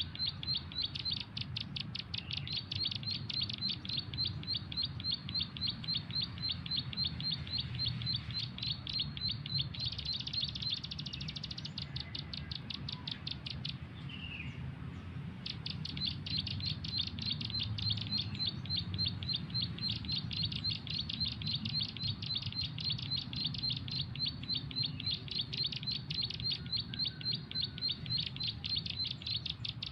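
Bird chirps repeated rapidly and very evenly, about four a second, breaking off for a few seconds near the middle, where a short trill and a couple of falling notes come in instead. This is typical of a bird-call lure played from a phone to draw in wild birds. A steady low rumble runs underneath.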